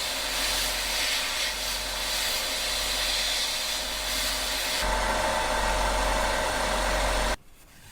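A power tool running steadily, with a steady whine over a hiss. Its pitch shifts higher about five seconds in, and it stops abruptly near the end.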